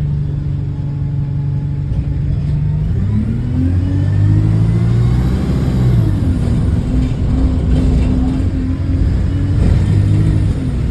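Bus engine heard from on board, pulling away: it runs steadily at first, then rises in pitch as the bus accelerates, drops sharply at a gear change about six seconds in, and climbs again before dropping near the end. The bus has an exhaust leak.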